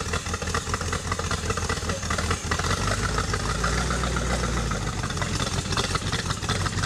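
Engine of a chopped 1935 Ford pickup hot rod running with a steady, deep rumble, starting abruptly.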